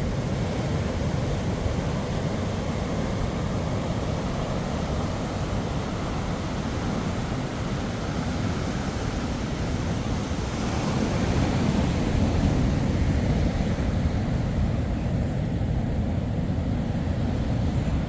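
Steady rushing of wind on the microphone mixed with surf, swelling for a few seconds past the middle.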